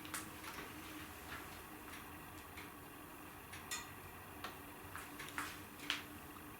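Wood fire burning in a fireplace, crackling with irregular pops and snaps over a faint steady hiss, with a couple of sharper snaps near the end.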